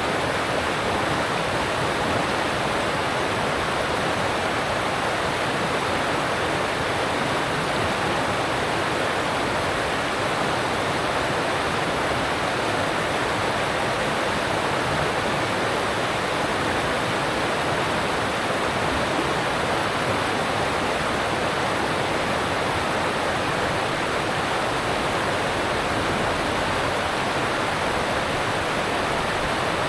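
Alpine stream rushing steadily over rocks: a continuous, even water noise with no breaks.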